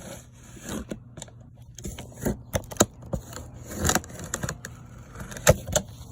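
Cardboard box being handled and worked open: irregular scrapes, rustles and sharp knocks, with two loud knocks a little under three seconds in and about five and a half seconds in.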